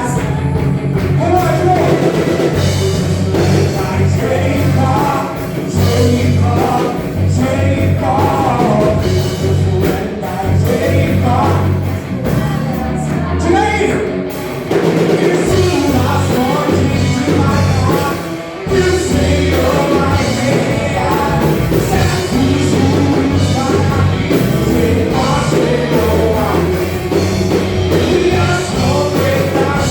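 Live worship music: a band with drums, bass and guitars playing a rock-style praise song while voices sing.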